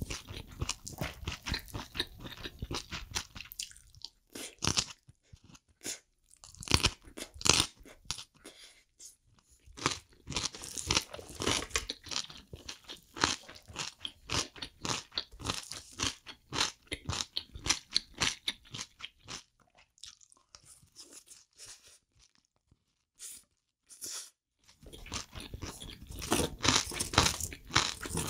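Close-miked chewing of a mouthful of spicy braised octopus and abalone with bean sprouts: runs of quick, crisp crunches and wet chewing, with short pauses between bites and a quieter stretch of a few seconds about three-quarters through.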